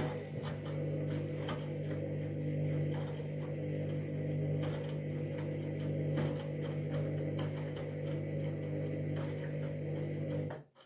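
Candy washing machine humming steadily, with faint scattered ticks over the hum; the hum cuts off abruptly near the end.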